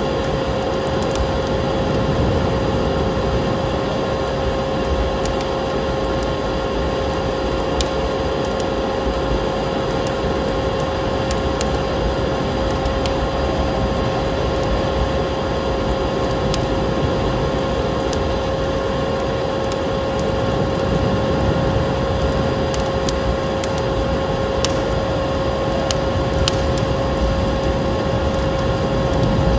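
Wood fire crackling, with sharp irregular pops and snaps over a steady rushing noise and a constant hum.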